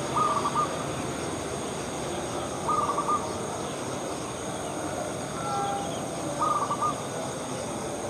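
Zebra dove (perkutut) cooing: three short stuttering phrases of quick notes, a few seconds apart, over a steady outdoor hiss.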